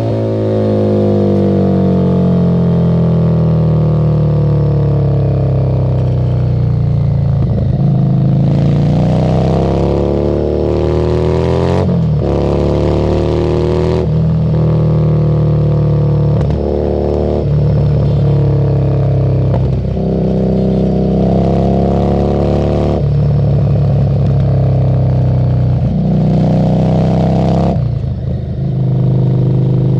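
Harley-Davidson Street 750's liquid-cooled V-twin running through a Screamin' Eagle exhaust while being ridden. The engine note falls for the first several seconds, then climbs and drops back again and again as the rider accelerates and shifts gears.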